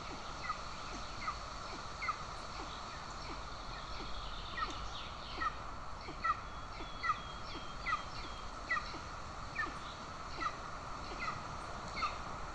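Golden eagle chick begging at the nest: a long series of short, high, downward-slurred call notes, a little over one a second, over a steady background hiss.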